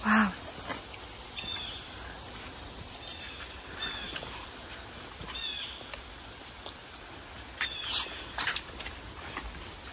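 Birds chirping outdoors: short high calls, each with a quick falling tail, repeating every second or two, with a few louder sharp chirps about eight seconds in.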